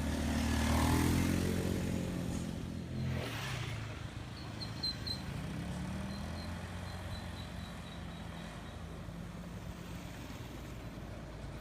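A road vehicle's engine running, loudest about a second in as it goes by, its pitch falling over the first few seconds and rising again around the middle.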